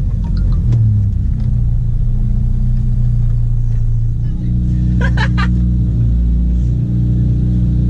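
Proton Wira 1.6's 4G92P single-overhead-cam four-cylinder engine running at a steady speed, its pitch shifting slightly about four seconds in. A brief high-pitched burst cuts in about five seconds in.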